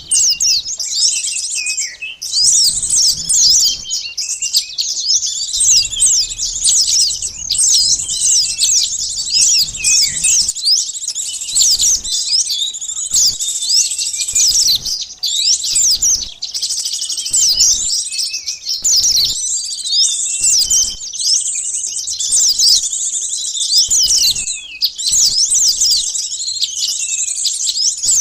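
Dense, rapid high-pitched chirping and twittering of small birds, many short rising and falling notes overlapping without pause: a lure call for sunbirds.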